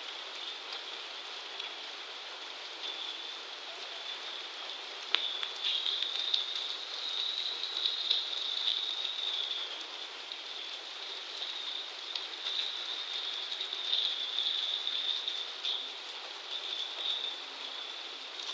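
Heavy rain falling in a steady hiss that swells and eases, with one sharp click about five seconds in.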